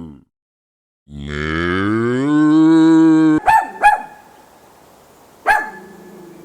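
A cow mooing: the end of one moo, then a long moo lasting about two seconds. A dog then barks twice in quick succession and once more about a second and a half later.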